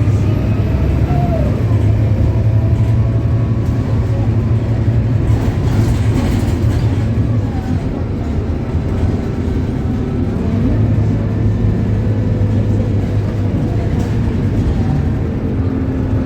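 Scania K280UB bus's Scania DC9 diesel engine running under way, a steady low drone with faint whining tones gliding up and down. The drone eases briefly about eight seconds in and builds again a couple of seconds later.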